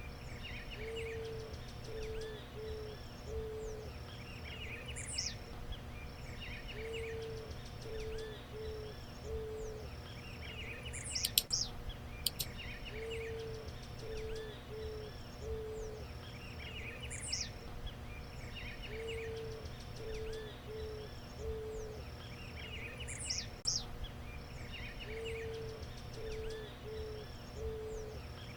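Eared dove cooing: low phrases of one longer coo followed by three or four short ones, repeated about every six seconds. Other birds chirp and whistle higher up between the phrases, and a couple of sharp clicks come about halfway through.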